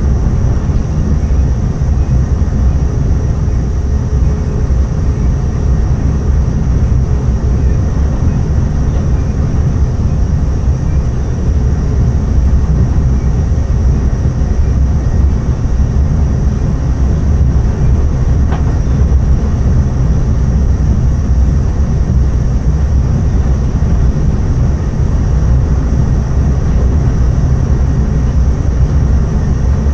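Intercity passenger train running at speed, heard from the driver's cab: a steady low running noise of wheels on rails and traction equipment.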